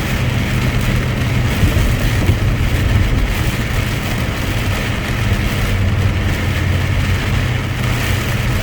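Heavy truck's engine running steadily under way, heard from inside the cab with road noise; a steady low engine drone over an even rushing noise.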